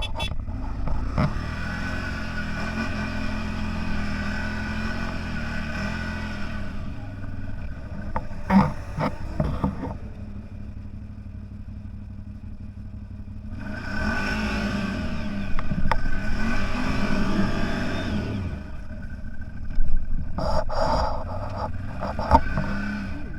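Off-road vehicle engine revving hard under load in two long pushes, its pitch rising and falling. Between the pushes and near the end there are short bursts of rattling and scraping clatter.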